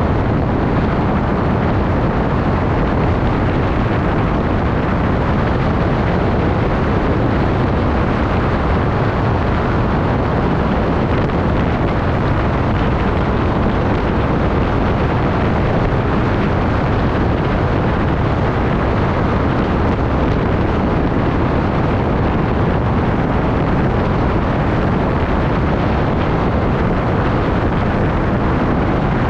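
Steady, loud rush of wind buffeting the microphone while riding, an even roar with no breaks.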